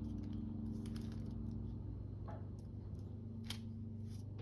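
A few light clicks and handling noises of hands working paper and craft materials, over a steady low hum.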